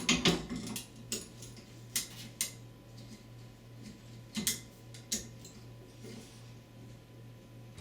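Irregular sharp clicks and knocks, about six of them, as an old shower head stiff with calcium build-up is forced and turned loose on its pipe. A low steady hum runs underneath.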